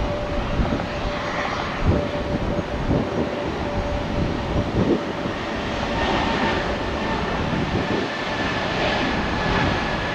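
Airbus A220-300 twin jet departing under high thrust: a continuous jet engine noise with steady whining tones from its geared turbofans, the pitch of the whine shifting higher about halfway through.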